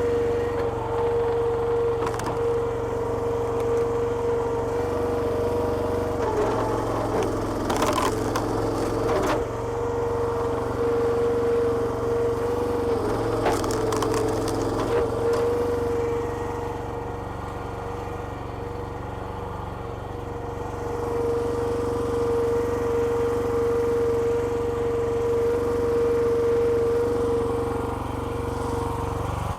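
Petrol-engine-driven hydraulic log splitter working, with the engine running steadily under a constant high whine. Logs crack and split with sharp snaps a few times, mostly around a third and halfway through.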